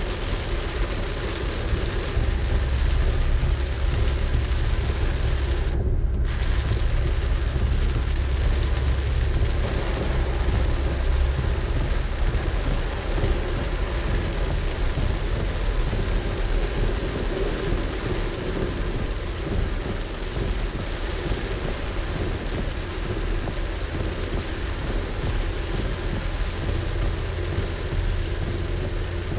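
Rain falling on a moving car's roof and windshield, with steady road noise underneath. A deep rumble of thunder swells and fades through roughly the first ten seconds.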